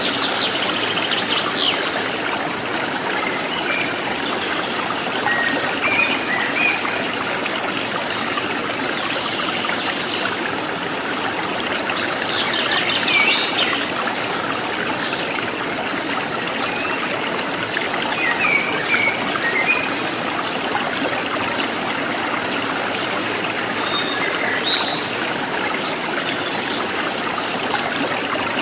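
Forest stream trickling and babbling steadily, with wild birds calling over it in short scattered chirps and a few quick runs of high repeated notes.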